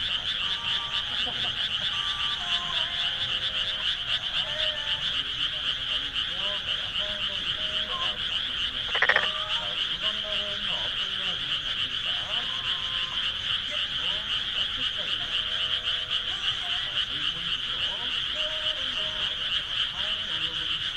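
A dense, steady chorus of frogs calling from rice paddies, a fast-pulsing high trill with scattered lower croaks. About nine seconds in, a single louder call stands out briefly above the chorus.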